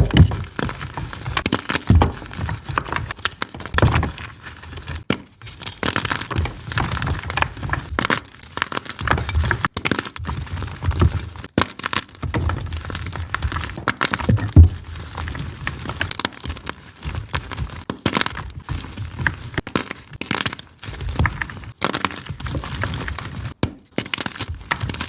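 Gym chalk blocks being crushed and crumbled, giving dense, irregular crunching with sharp cracks and snaps as the blocks break apart.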